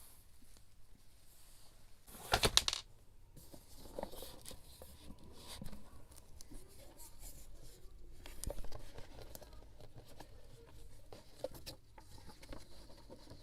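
Scrapbooking paper and supplies being handled close to the microphone: soft rustling and small taps and clicks, with a short, louder burst of rapid crackling about two seconds in.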